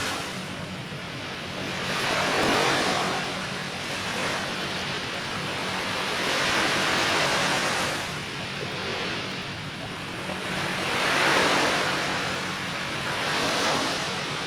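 Surf washing onto a beach, a rushing noise that swells and falls back every few seconds as the waves break.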